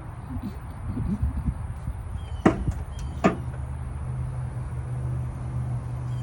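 Two sharp knocks under a second apart, over the low steady rumble of a vehicle.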